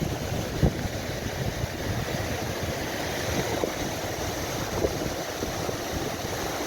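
Steady rush of a rain-swollen stream, with wind buffeting the microphone and a brief knock about half a second in.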